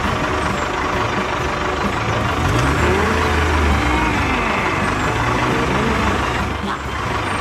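A vehicle engine running steadily with a dense mechanical noise, its pitch rising and falling once or twice around the middle.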